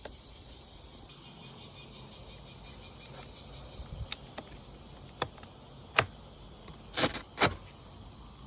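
Faint steady hiss with a few scattered sharp clicks in the middle, then two louder scraping sounds about seven seconds in.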